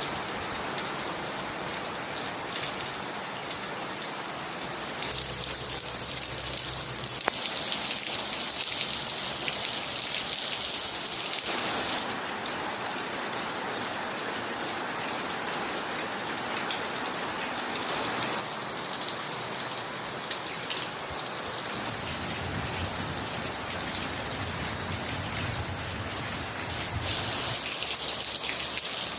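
Steady rain falling on surfaces, an even hiss whose loudness jumps up or down suddenly a few times.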